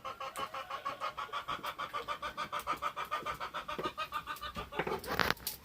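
A bird, likely a chicken, calling in a rapid, even run of short pitched notes, about ten a second, that stops near the end. A brief rustling or scraping noise follows.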